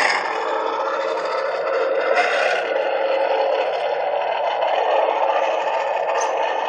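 An RC monster truck's sound module plays a steady simulated engine running sound through its small speaker, with a brief brighter surge about two seconds in.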